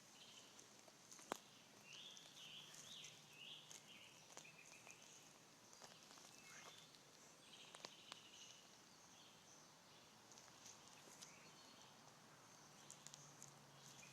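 Faint bird chirps in short clusters over quiet outdoor ambience, with a few soft clicks and one sharper click about a second in.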